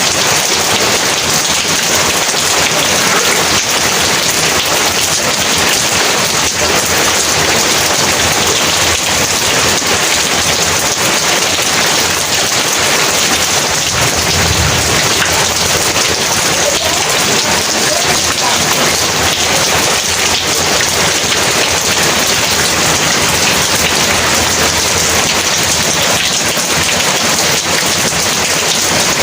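Heavy rain pouring steadily, with a low rumble of thunder about halfway through.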